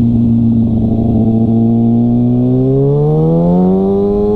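Sportbike engine running at steady revs while riding, then revving up and accelerating about two-thirds of the way through.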